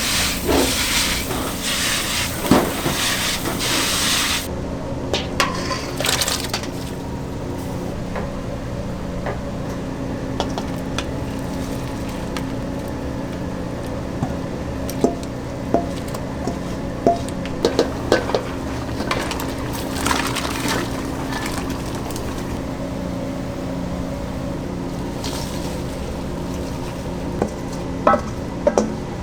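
Commercial kitchen sounds: a loud hiss for the first four seconds or so, then a steady hum of equipment with scattered clinks and knocks of utensils and pans.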